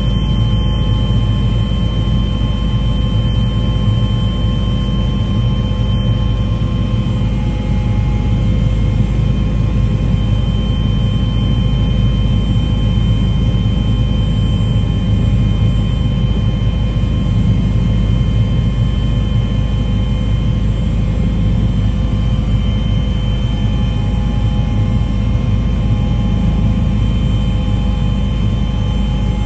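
A loud, steady engine drone with a deep rumble and a few constant whining tones above it, cutting off abruptly at the end.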